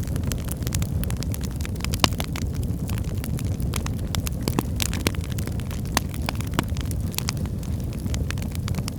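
Wood fire burning in a fireplace: a steady low rumble of flames with irregular sharp crackles and pops from the burning logs, one louder pop about two seconds in.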